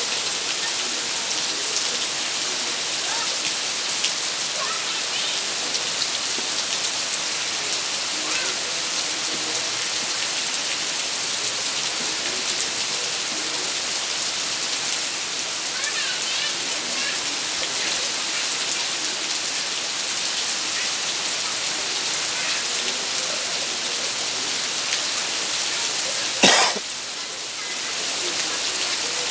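Steady heavy rain falling, an even hiss throughout. Near the end a single sharp click, after which the rain sounds briefly quieter.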